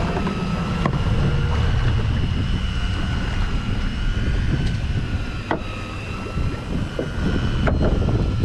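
Fishing boat's engine running steadily under way, with wind buffeting the microphone and three sharp knocks: about a second in, midway, and near the end.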